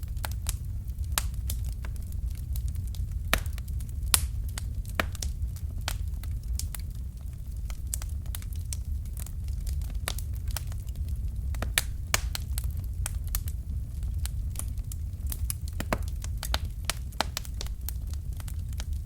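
Fireplace fire crackling: irregular sharp pops and snaps, a few louder than the rest, over a steady low rumble of the flames.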